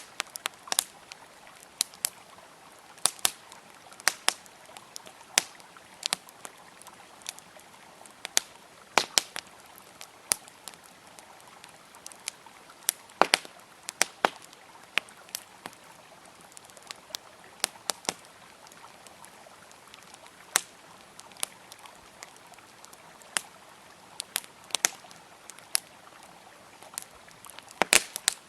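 Campfire wood crackling with irregular sharp pops and snaps, several clustered near the end, over the steady rush of a flowing river.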